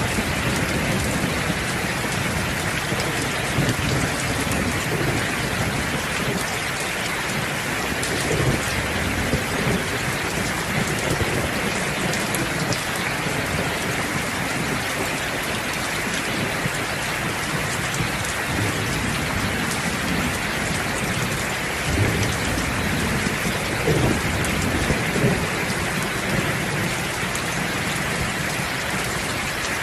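Steady heavy rain with low rumbles of thunder underneath; the thunder swells into short, louder cracks about eight seconds in and again around 22 to 25 seconds in.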